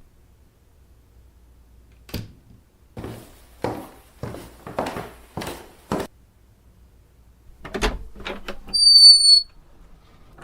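A run of short scuffing knocks, then a brief high-pitched squeak, falling slightly in pitch, which is the loudest sound.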